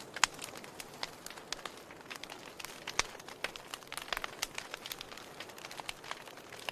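Wood fire burning in a fireplace: logs crackling with irregular sharp pops over a soft steady hiss, a louder pop shortly after the start and another about three seconds in.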